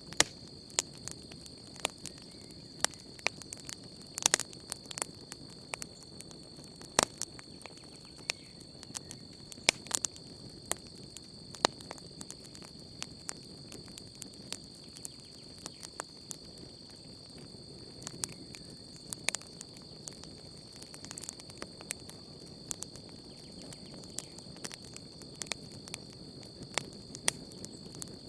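Wood campfire crackling, with frequent sharp, irregular pops over a low steady rush. A steady high chorus of night insects runs underneath.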